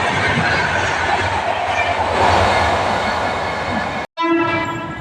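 Passenger train running past at high speed, a steady rushing noise of wheels and coaches. About four seconds in the sound cuts off abruptly, and an electric locomotive's horn then sounds as one steady blast.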